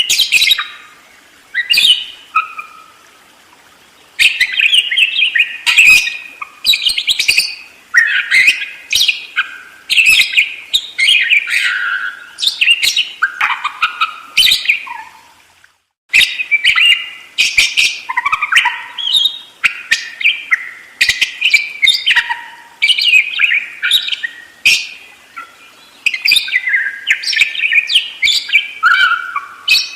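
Budgerigar chattering and warbling almost without pause, in rapid strings of high chirps and squeaky notes. The sound drops out briefly about halfway through.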